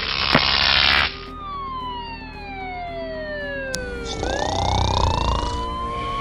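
Cartoon sound effects: about a second of loud hiss, then a whistle-like tone gliding slowly down in pitch for about three seconds, then gliding back up again, with a brief burst of high hiss as the rise begins.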